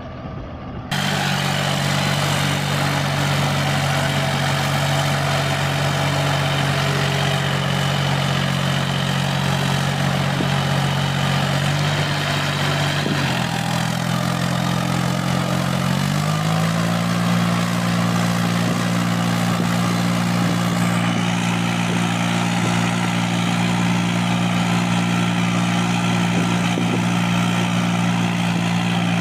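Mini tractor engine running steadily. It cuts in abruptly about a second in, sags and wavers in pitch around the middle, then settles a little higher.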